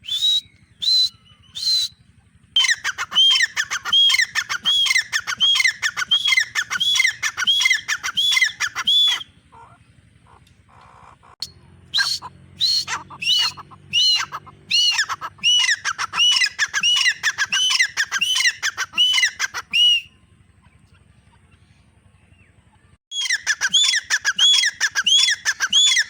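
Grey francolin (teetar) calling: three single shrill notes, then long bouts of repeated rising-and-falling notes, about two a second, with short pauses between bouts.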